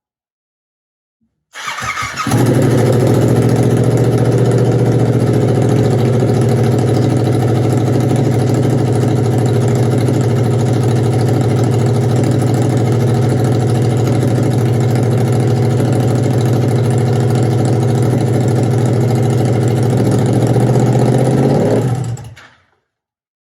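Yamaha R7 motorcycle engine with no exhaust fitted, started about a second and a half in and running loud from the open headers at a steady idle, then switched off near the end.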